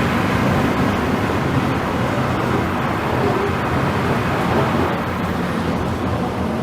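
Steady road and wind noise of a car driven at speed.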